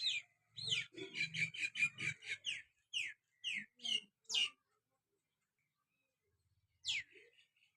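Myna calling: a quick run of about a dozen chattering notes, then four separate downward-sliding whistled calls, and after a pause of about two seconds one more sliding call near the end.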